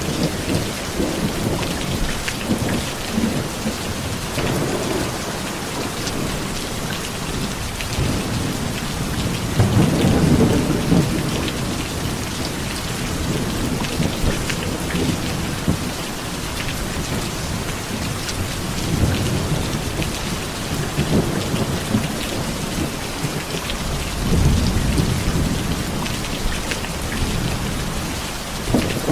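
Heavy rain falling steadily, with rolls of thunder swelling in several times, strongest about ten seconds in and again near the end.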